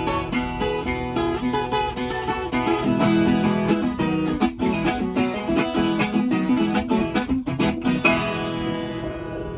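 Viola caipira, the Brazilian steel-string folk guitar, played with a mix of plucked notes and sharp strummed chords. Near the end it closes on a chord left ringing and dying away.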